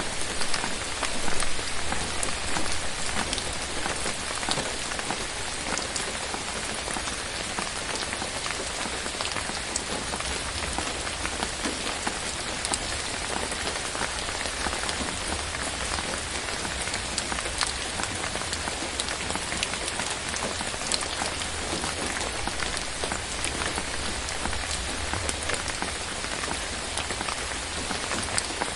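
Steady rain falling on forest foliage, a dense hiss with many individual drops ticking, a little heavier in the first couple of seconds.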